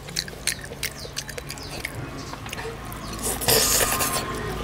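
Close-miked wet chewing with many short mouth clicks and smacks while roasted goat-head meat is picked apart by hand. About three and a half seconds in, a louder hissing rustle lasts about a second.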